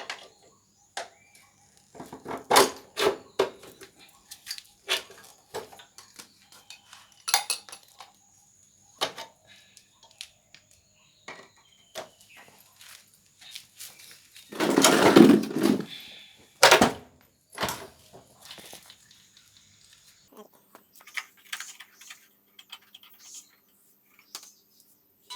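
Metal tools and motorcycle parts clinking and knocking in irregular single strikes during restoration work, with a longer rattling clatter a little past halfway.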